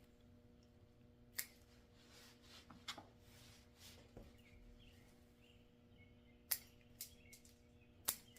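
Faint room hum with a few sharp, separate clicks, about five in all, typical of a dog's nails being clipped with nail clippers.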